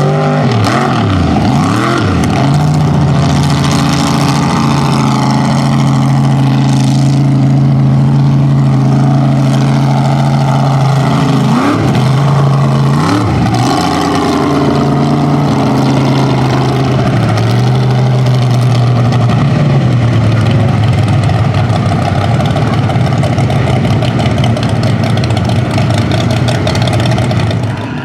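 Mud truck's engine running hard at high revs while bogging, with quick drops and climbs in revs about a second in and again around twelve seconds in, otherwise held steady and loud.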